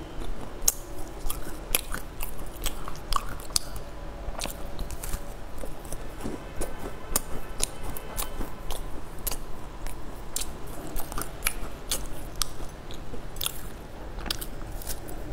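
Eating a crisp, sunflower-seed-crusted cream-filled pastry: bites and chewing with many sharp, irregular crunchy crackles.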